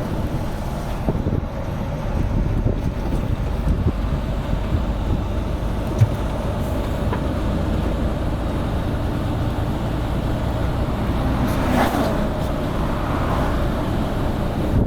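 A truck on the move: a steady low rumble of engine and road noise, with a single short knock about six seconds in.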